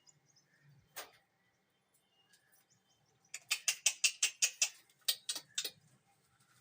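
Lovebirds making a quick run of about a dozen sharp clicks, about five a second, for a couple of seconds, after a single click about a second in.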